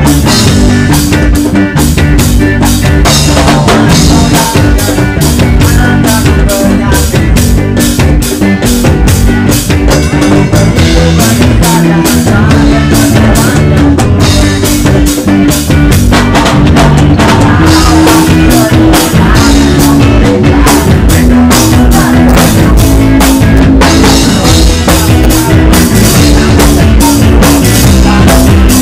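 A band playing a reggae song live, loud, with a drum kit keeping a steady beat under sustained low notes.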